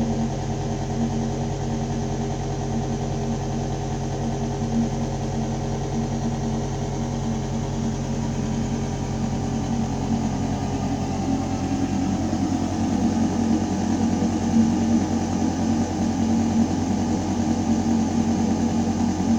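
Building ventilation system humming: a steady mechanical drone of air moving through metal ducting, made of several steady tones. A little past halfway the hum shifts and grows slightly louder, its middle tones rising while the deepest tones fade.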